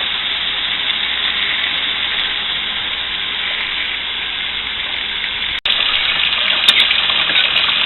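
Kitchen tap running hot water steadily onto a dish in the sink while burnt marshmallow is rinsed off. The flow cuts out for an instant just past halfway, then comes back a little louder.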